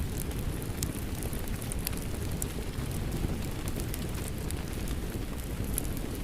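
Wood fire crackling in a fireplace, with irregular sharp pops, over a steady low rush of rain.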